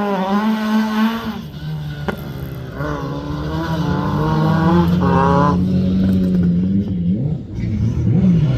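Rally car engine running under load. Its pitch holds fairly steady, drops about one and a half seconds in, climbs slowly, then dips twice near the end.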